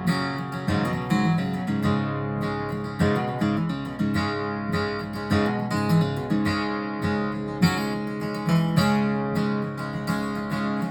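Acoustic guitar strummed in a steady rhythm, playing a chord progression without singing.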